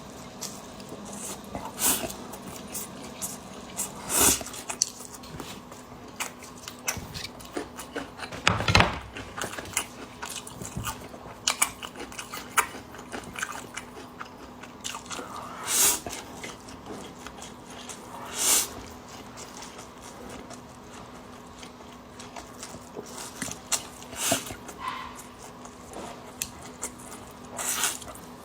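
Close-up chewing and eating of braised noodles with pork and green beans, with scattered wet smacks and clicks, a few louder ones, over a faint steady hum.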